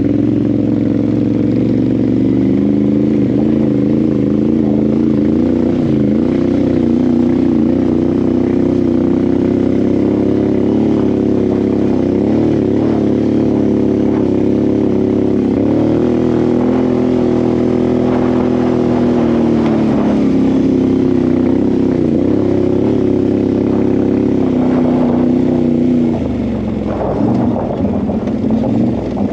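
ATV engine running at a fairly steady speed, its pitch rising and falling slightly. About 26 seconds in the steady tone breaks off into a rougher, noisier sound.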